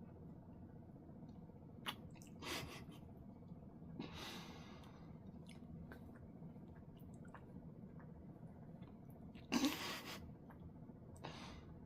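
Quiet mouth and breath sounds of a person eating a burger: soft breaths and small mouth clicks, with a louder sigh-like exhale near the end.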